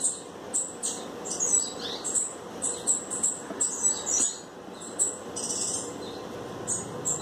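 Small birds chirping: many short, high-pitched chirps, irregular and several a second, over a faint steady hum.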